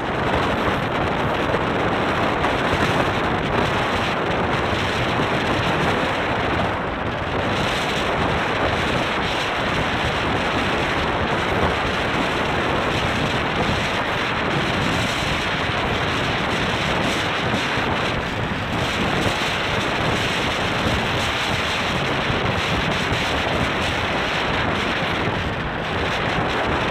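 Steady rush of wind over the microphone mixed with the running noise of an Indian passenger train, heard from the open doorway of a moving coach.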